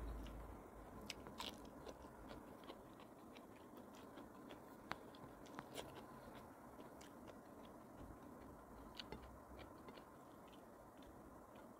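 Faint close-miked eating sounds: chewing with many small, sharp mouth clicks and smacks, as a person eats fish with her fingers.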